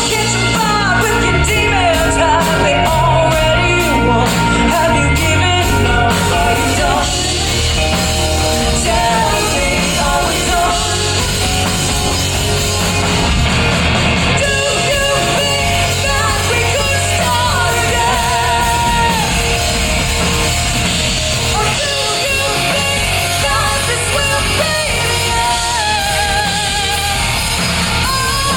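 Live rock band playing loudly, with drums, guitars and strained, shouted singing over the top.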